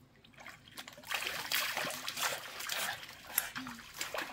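Water splashing and trickling in irregular bursts, starting about a second in.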